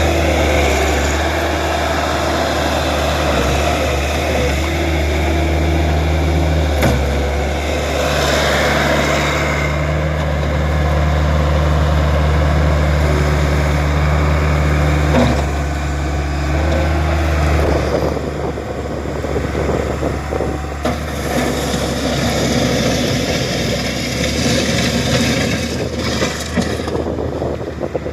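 Case 75XT skid steer's diesel engine running steadily. About 18 seconds in, its note drops and turns less even, with a few knocks.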